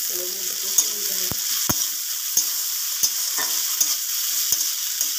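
Sliced onions and green chillies sizzling in hot oil in a steel wok while being stirred, with a steady frying hiss and a metal spatula clicking and scraping against the pan every second or so.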